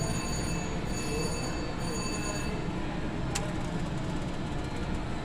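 Casino floor din: a steady wash of machine and room noise, with slot-machine electronic tones ringing for the first couple of seconds and one sharp click a little past three seconds in.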